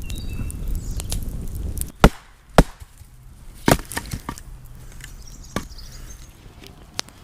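Sharp knocks of wood on wood: two loud ones about half a second apart around two seconds in, another a second later, then a few quieter ones. A low rumbling noise comes before them and stops when the knocks begin.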